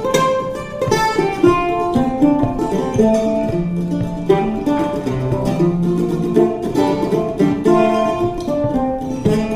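Mandola picked in an instrumental break of a blues-style song: a run of separate plucked notes and chords with no singing.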